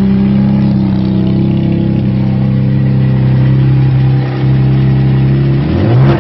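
Jaguar S-Type 3.0-litre V6 engine, fitted in a Lotus Esprit, running steadily on its first start after the swap, then briefly revved, the pitch rising and falling back near the end.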